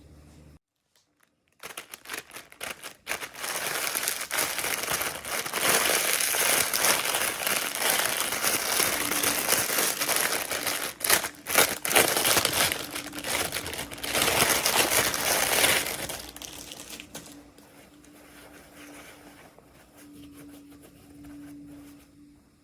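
Packaging crinkling and crumpling as a miniature toy is unwrapped by hand. It starts about two seconds in, runs busily for over ten seconds, then drops to quieter rustling.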